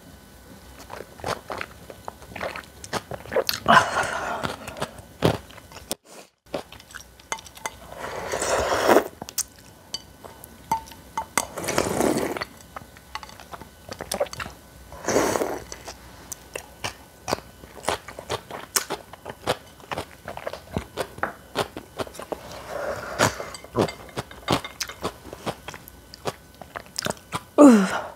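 Close-miked eating: chewing and crunching of naengmyeon toppings and spicy kimchi, with many small clicks and a few louder noisy swells every few seconds.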